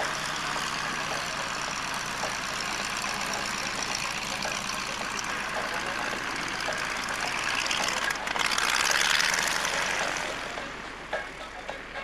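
An engine running steadily, growing louder to a peak about eight to ten seconds in, then fading away.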